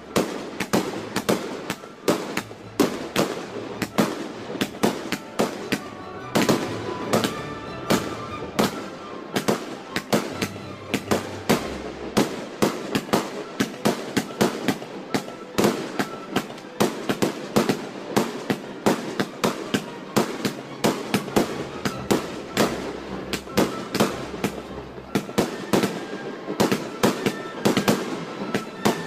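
Fireworks display going off: a fast, unbroken run of sharp bangs and crackles, several reports a second.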